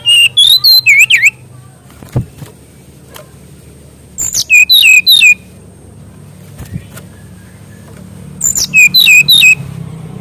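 A brown-chested jungle flycatcher (SRDC) singing in three quick bursts, at the start, about four seconds in and about eight seconds in. Each burst is about a second of rapid, sweeping, high chirpy notes.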